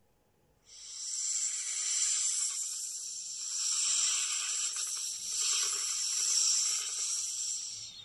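A snake hissing: a long continuous hiss that starts about a second in, swells and eases a few times, and fades away near the end.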